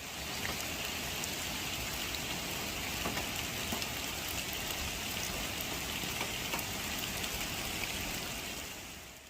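Rain falling steadily, a dense hiss dotted with the tiny ticks of drops striking a surface. It fades down near the end.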